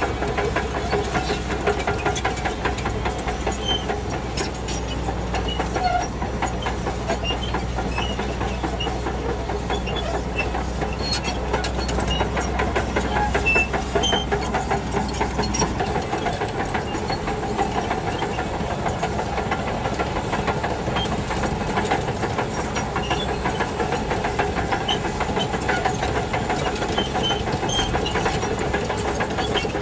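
Shantui DH17C2 crawler bulldozer's diesel engine running under load, with a fast, steady clatter from the steel tracks as it pushes soil. A deep low hum drops away about halfway through.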